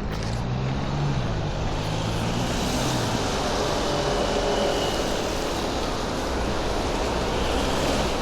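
Loud, steady rush of passing motor traffic. A vehicle's low engine hum rises and falls over the first three seconds.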